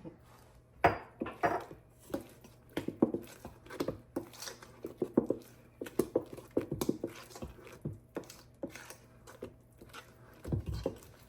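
A spoon stirring batter in a mixing bowl, with irregular clinks, knocks and scrapes against the bowl.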